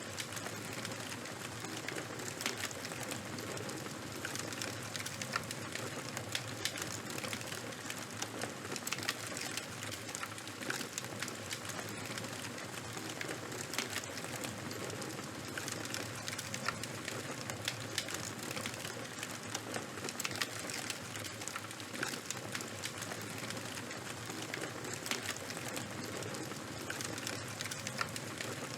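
Charcoal and wood fire crackling: a steady hiss with frequent, irregular sharp pops and snaps.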